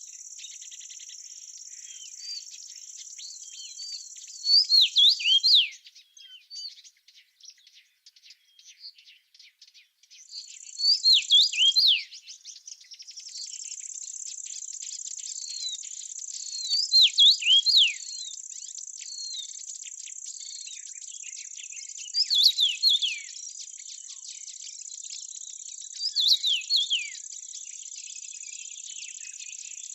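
A steady high insect trill, like crickets, with a songbird breaking in about every five or six seconds with a short burst of quick down-slurred notes. The trill drops out for a few seconds about a fifth of the way in, then resumes.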